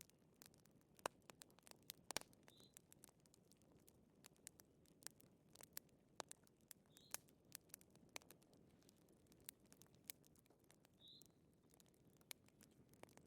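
Wood fire crackling quietly, with irregular sharp pops over a low hiss. A faint short high note comes back every few seconds.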